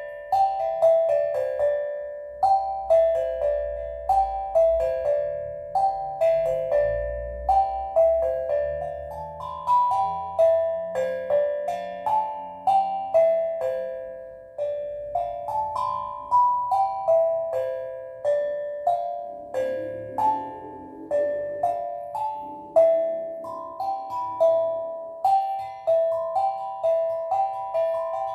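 Steel drum played as a slow, meditative melody: a steady run of single struck notes, a few each second, each ringing and fading.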